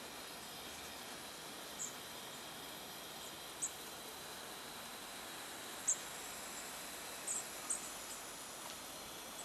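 Half a dozen short, very high-pitched bird calls, spaced a second or two apart, over a steady hiss.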